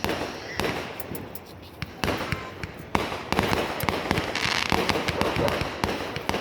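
Fireworks going off: sharp bangs at the start, about two seconds in and about three seconds in, then a dense run of crackling.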